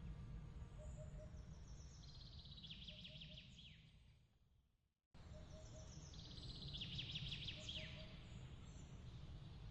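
Faint outdoor night ambience: a low steady rumble under a bird's rapid chirping trill that ends in a falling note. The whole sound fades out to silence about four seconds in, then starts again abruptly half a second later, and the same trill comes round again.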